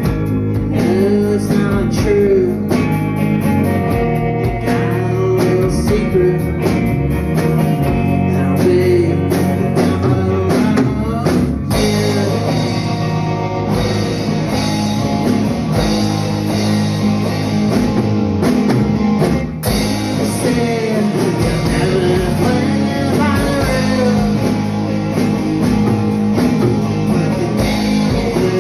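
Live rock band playing a song: guitar and drum kit with a singing voice over them.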